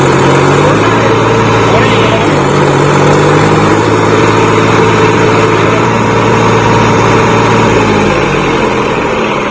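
Tractor diesel engine running hard under load, its note stepping up and down a few times and easing off about eight seconds in.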